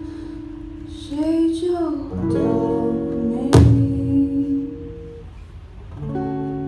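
Acoustic guitar chords strummed and left to ring, each one slowly dying away, with a new chord struck about six seconds in. A short vocal phrase comes about a second in, and a sharp, loud strike lands about halfway through.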